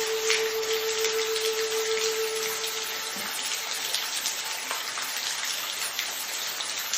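Steady rain falling, with a held note of soft background music that fades out about halfway through.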